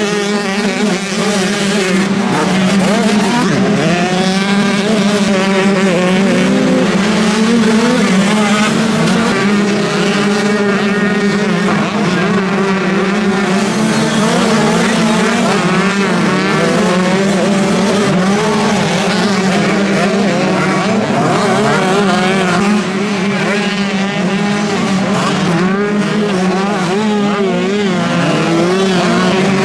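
Several motocross bikes racing, their engines revving up and down over one another through gear changes and corners.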